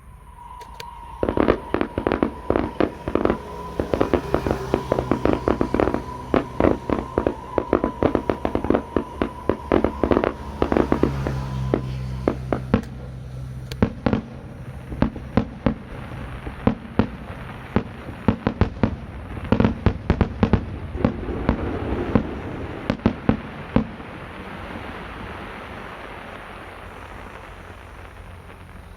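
Fireworks going off in a rapid, dense barrage of sharp bangs, thinning out into a fading crackle near the end.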